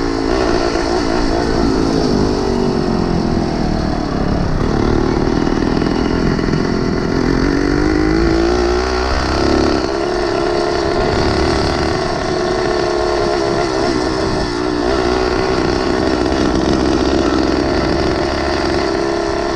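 Small engine of a motorized bicycle running under way, its pitch falling and then rising again as the throttle changes.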